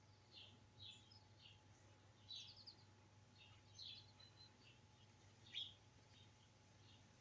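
Birds chirping faintly: short high chirps and a brief trill, several a second and irregular, over a low steady hum.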